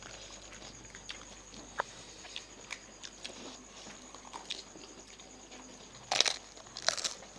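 Crunching and chewing of fuchka, crisp hollow fried puri shells bitten with their filling, as small scattered crunches with two louder crunching bites about six and seven seconds in.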